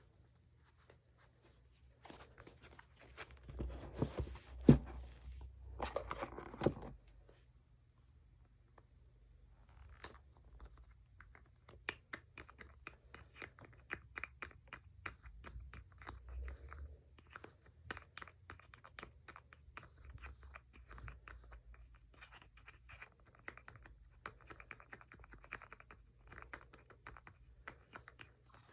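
Fingernails scratching and tapping on makeup packaging as an ASMR trigger. First comes a few seconds of rustling handling with one sharp click. Then, from about a third of the way in, a long run of quick, dense scratches and taps.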